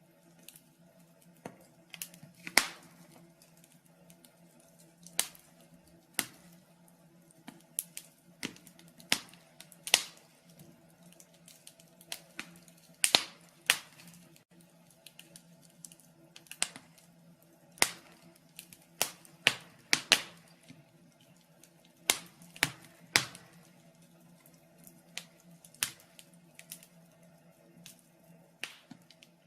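Wood fire crackling in a fireplace: irregular sharp pops and snaps, about one a second and of uneven strength, over a faint steady low hum.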